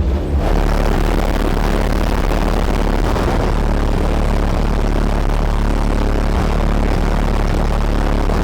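Trunk-mounted car audio system played at competition volume: a deep, steady bass with a dense wash of noise over it, which comes in just after the start.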